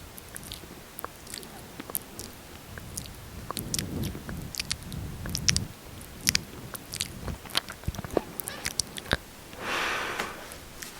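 Close-miked wet lip smacking: irregular sharp clicks and smacks of the mouth, with a short breathy rush near the end.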